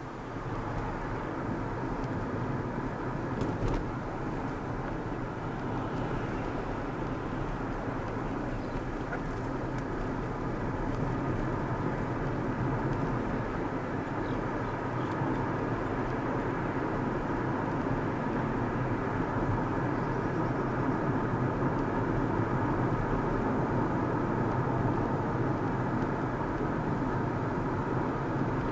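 Car driving on the road: steady tyre and engine noise, heard from inside the car and slowly getting a little louder. There is a faint click about three and a half seconds in.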